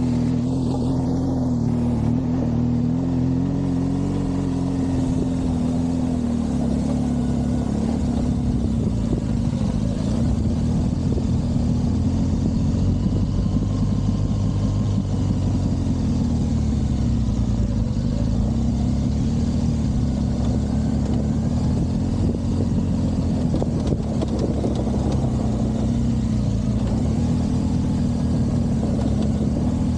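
BMW R1200GS's flat-twin engine running as the motorcycle is ridden, its pitch rising and falling gently with the throttle over a steady rush of noise.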